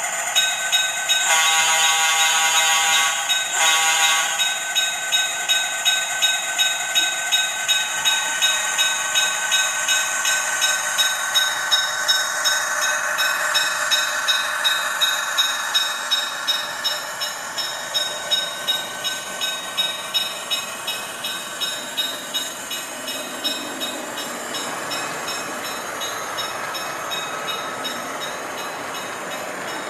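Sound decoder of an HO-scale model diesel locomotive playing through its small onboard speaker. A horn sounds twice near the start, a long blast and then a short one. A steady rhythmic pulsing follows, about one and a half beats a second, growing fainter in the second half.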